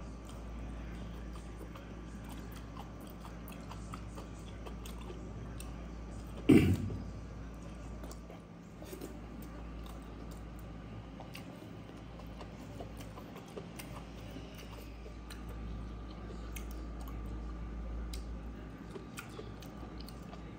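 Close-up chewing and mouth clicks of a man eating pork intestine, rice and greens, over a steady low hum. One loud thump about six and a half seconds in.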